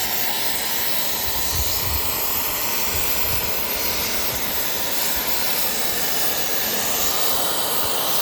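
Gas cutting torch hissing steadily as it cuts through the steel of an excavator track chain link.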